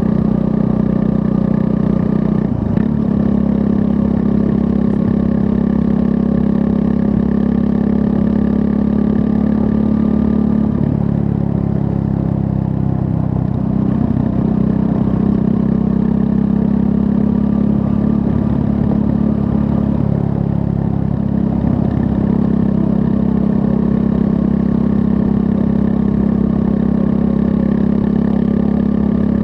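A Triumph Scrambler 400 X's 398 cc single-cylinder engine running steadily under way. Its pitch dips and wavers through the middle, then settles back to a steady tone near the end.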